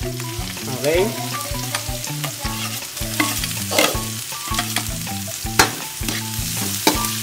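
Diced red onion added to hot oil with minced garlic in a frying pan, sizzling steadily, with many sharp clicks and scrapes of a utensil against the pan as it is stirred.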